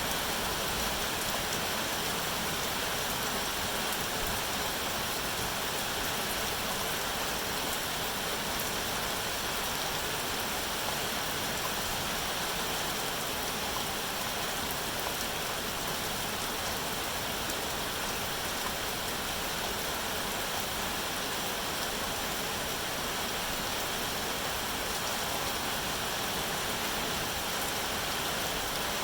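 Steady rain falling, an even hiss with no letup or distinct drops standing out.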